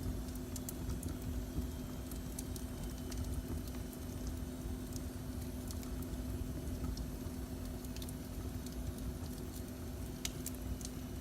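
Fireplace fire crackling, with scattered sharp pops and ticks, a stronger one near the end, over a steady low rumble and hum.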